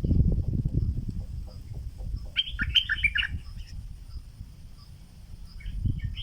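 Stripe-throated bulbul decoy singing a short burst of quick chirpy notes about two and a half seconds in, and starting another phrase near the end. A loud low rumble runs underneath, heaviest at the start, along with a faint steady high whine.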